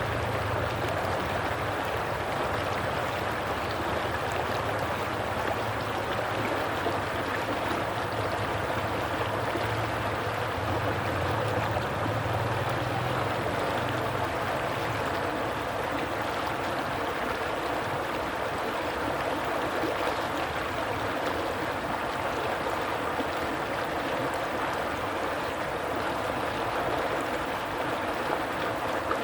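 Stream water flowing steadily, an even rushing with no breaks. A low hum sits under it for the first half and fades out about halfway.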